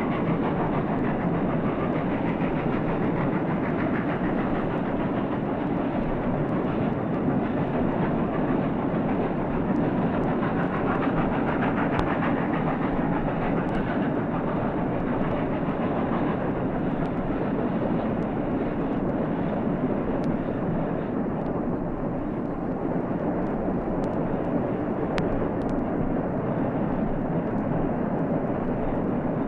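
Steam locomotive running, a steady dense rush of exhaust and running noise with no break, heard through an old mono recording with the treble cut off, plus a few faint clicks.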